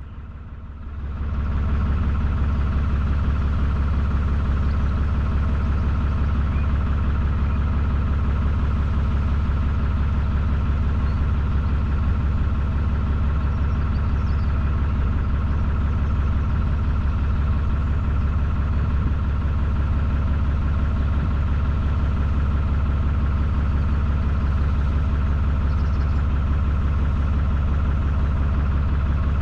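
Narrowboat's engine running steadily at low revs, coming up in level about a second in.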